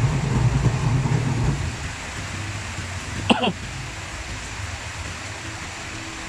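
Repaired twin-tub washing machine's motor running with a steady low hum that drops off sharply a little under two seconds in, leaving a quieter hum. A brief sharp sound comes about three seconds in.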